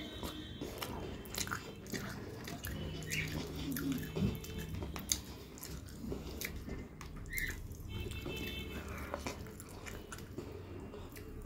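A person chewing a mouthful of rice and chicken curry close to the microphone, with many small wet mouth clicks and smacks. The fingers also gather curry-soaked rice on the plate.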